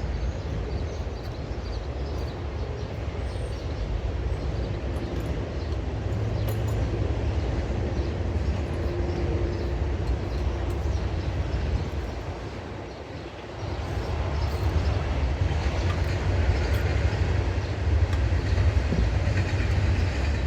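Old Briggs & Stratton engine being cranked over without firing, after carb cleaner was sprayed in: a steady low rumble that eases briefly about two-thirds of the way through, then picks up again.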